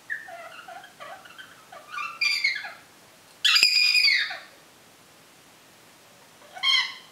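African grey parrot vocalizing: low, garbled chatter over the first few seconds, then a loud, high call about three and a half seconds in, and a shorter loud call near the end.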